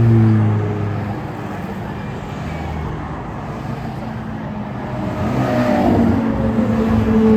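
Ferrari sports cars driving past one after another. One passes at the start with its engine note falling away, then another approaches, its engine note rising and growing louder toward the end.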